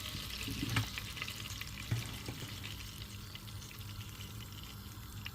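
Palm oil sizzling steadily in a hot, dry cooking pot, with a few sharp crackles in the first two seconds.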